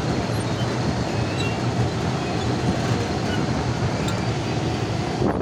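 Mumbai suburban local train running, heard from inside the compartment: a steady low rumble of wheels and carriage.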